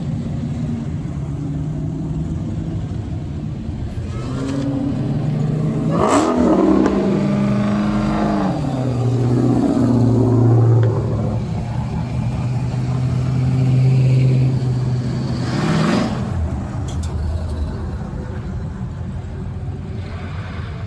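Car engine running, revved once about six seconds in with the pitch climbing and then falling back. It holds a steady note until about sixteen seconds in, when that note ends abruptly and a lower engine sound carries on.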